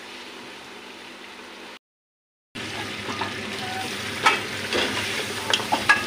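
Mutton trotters sizzling as they are fried down (bhuna) in oil with yogurt masala in an aluminium pressure cooker pot, while a steel ladle stirs and clinks against the pot. The sound drops out to silence about two seconds in; after that the frying is louder, with several sharp clinks of the ladle.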